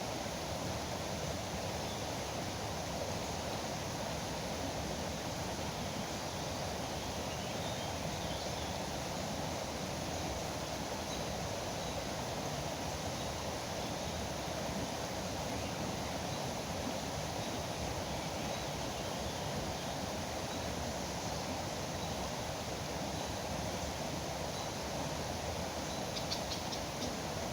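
Foaming river water rushing steadily, with faint, short, high bird chirps now and then over it.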